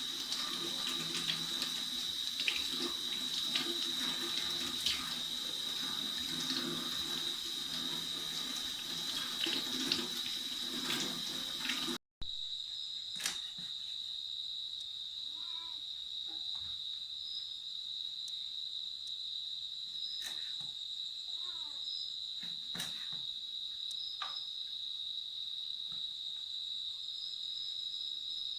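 Water running, as from a tap, over a steady high-pitched insect chorus for the first dozen seconds. After an abrupt cut the water stops and the insect chorus, typical of crickets, continues alone, with a few faint chirps and clicks.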